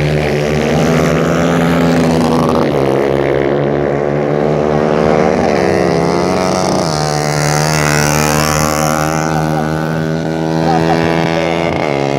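Engines of 150 cc racing motorcycles on a dirt track, several at once, revving hard. Their pitch climbs and then drops sharply as they shift gear, a few times over the stretch.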